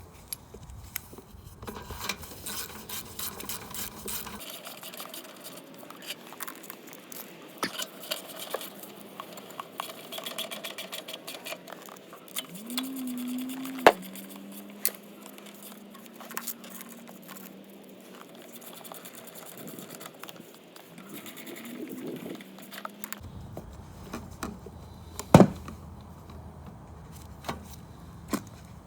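Small clicks and knocks of lawn mower parts and hand tools being handled while the air filter housing is refitted over the carburettor, with two sharper clicks, one about halfway through and one near the end.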